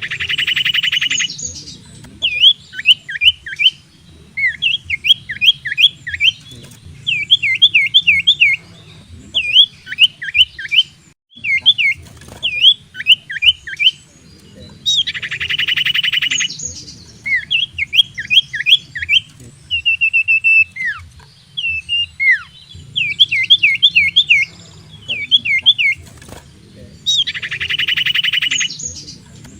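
Common iora (cipoh) singing: quick groups of sharp, whistled up-and-down notes, broken three times by a long, harsh rattling trill. The song repeats over and over, like a looped lure song.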